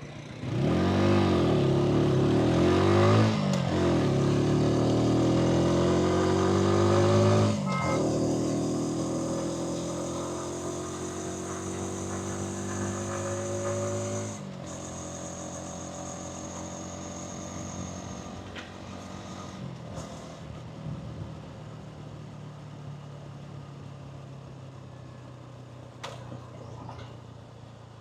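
Hansom Bike Venet 125cc motorcycle engine and exhaust under way. The note starts loud and swings up and down, then climbs in pitch, drops and climbs again twice. It then settles to a steadier, quieter run.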